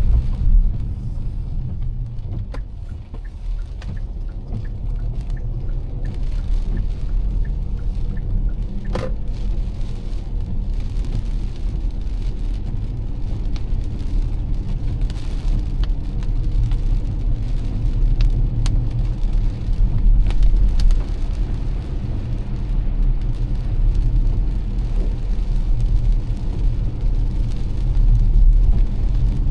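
Car driving in heavy rain: a steady low rumble of engine and tyres, with scattered raindrop ticks over it.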